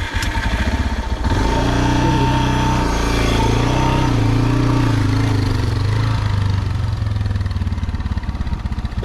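Motorcycle engine pulling under throttle up a hill, a steady pulsing note that rises in pitch and gets louder about a second in, then holds.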